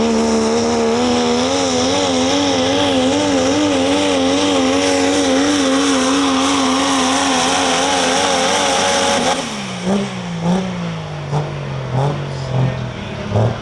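Super stock diesel pulling truck running at full throttle under load, its engine pitch wavering quickly as it pulls. About nine seconds in the throttle shuts and the engine winds down, with a few short blips of revs.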